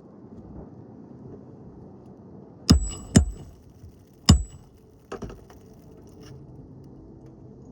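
Three sharp metal-on-metal knocks, the first two close together with a brief high ring, then a few lighter clicks. This is a hand tool striking metal during an asphalt shingle roof repair.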